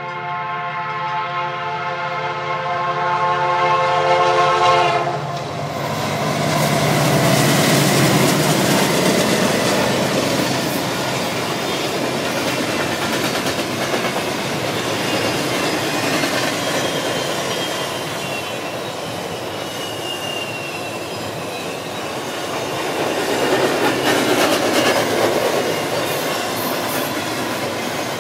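A locomotive's K3H five-chime air horn sounds one long, unbroken chord as the train approaches, cutting off about five seconds in. The lead diesels then pass, and a long string of double-stack container cars rolls by with a steady clickety-clack of wheels on the rail and a faint thin wheel squeal.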